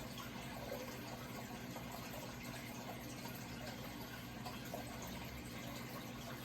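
Steady running water, trickling without a break, with a low steady hum beneath it.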